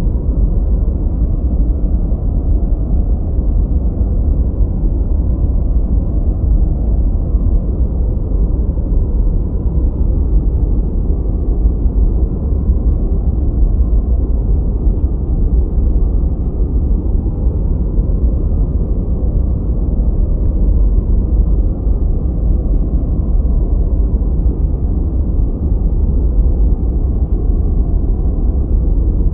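Steady, unchanging masking noise, deep and rumbling, its energy weighted to the bass with nothing in the highs, more like brown noise than true white noise.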